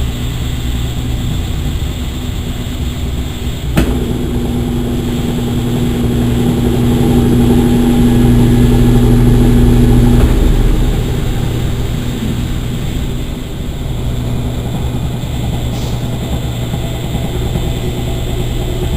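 Consul Maré Super 10 kg top-loading washing machine running through its wash cycle. Nearly four seconds in, a click starts a louder steady motor hum with a clear tone, which stops suddenly about ten seconds in, leaving the lower steady machine noise.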